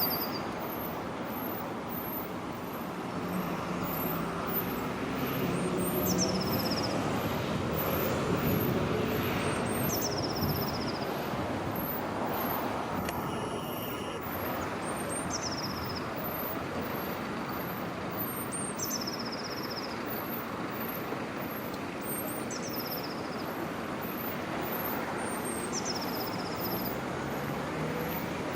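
A small bird repeats the same short, high call about every three seconds, each a brief high note falling into a short trill. Steady traffic noise runs underneath.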